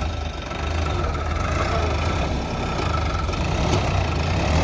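Sonalika tractor's diesel engine running steadily with a deep rumble, growing a little louder about a second in.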